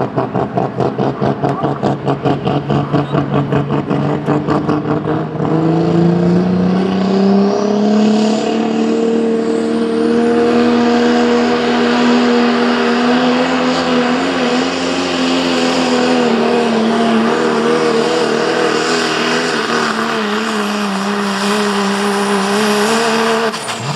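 Super modified pulling truck's engine making a pull: a rapid, pulsing lope for the first five seconds or so, then running at full throttle with its pitch rising and held high for most of the run. The engine drops off sharply near the end.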